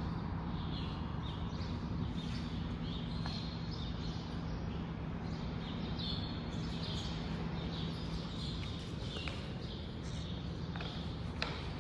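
Birds chirping and calling again and again, over a steady low hum that fades about two-thirds of the way through.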